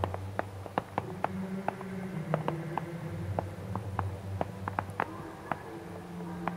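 Fireworks crackling: many short, sharp pops at irregular intervals, roughly two to four a second, over a low steady hum.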